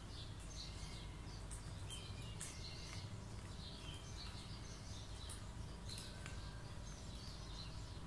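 Faint birds chirping over a steady low hum, with a few light clicks.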